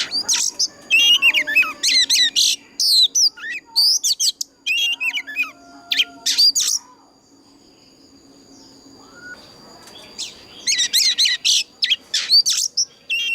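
Oriental magpie-robin singing loud, varied phrases of quick whistled notes that sweep up and down. There is a pause of a few seconds in the middle, then the song starts again. A faint steady high-pitched tone runs behind it.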